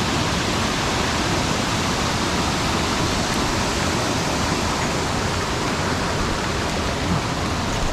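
Mountain stream water rushing steadily, a loud, even hiss of fast-flowing current with no change.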